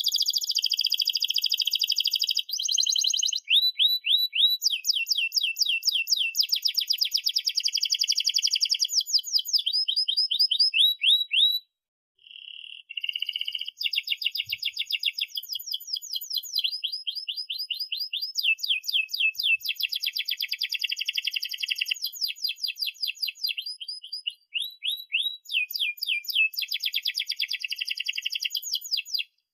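Domestic canary singing a long song of fast repeated trills and rolls, breaking off briefly about twelve seconds in and again near the end before resuming.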